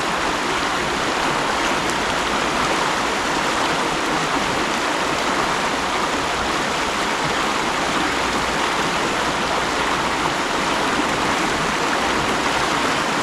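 Mountain stream running steadily over rocks, an even rushing of water.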